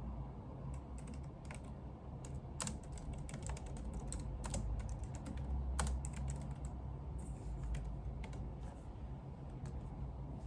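Typing on a computer keyboard: irregular key clicks in quick runs, over a steady low hum.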